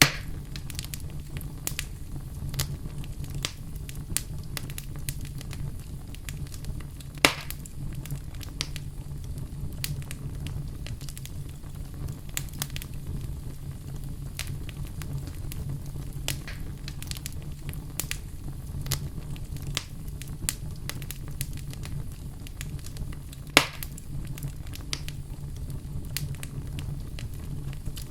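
Fireplace fire crackling steadily over a low rumble, with many small snaps and two louder pops, about a quarter of the way in and near the end.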